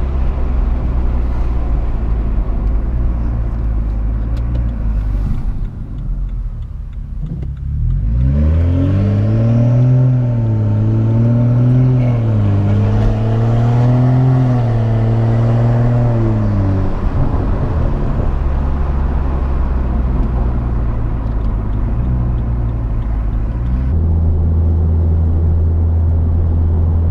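BMW M235i's turbocharged inline-six running through a straight-piped exhaust with no muffler or resonator, driving at a steady drone. About eight seconds in, the revs climb sharply, rise and fall for several seconds, then settle back into a steady cruising drone.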